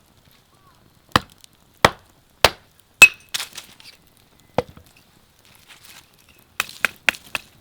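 A series of sharp chopping strikes: four roughly evenly spaced, one after a pause, then a quicker run of strikes near the end, one of them ringing briefly.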